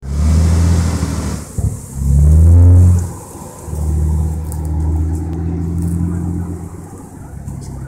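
Nissan Skyline R34's RB25DET NEO turbocharged straight-six revving: held high for a second or so, blipped with a rising pitch about two seconds in, then a steady pull as the car moves off, the sound fading as it draws away.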